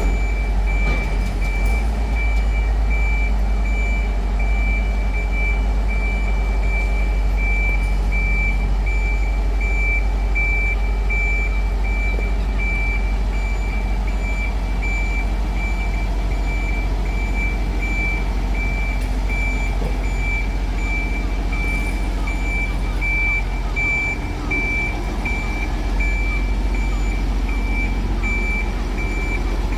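A vehicle's reversing warning beeper sounding a steady run of evenly spaced high beeps, over a constant low rumble.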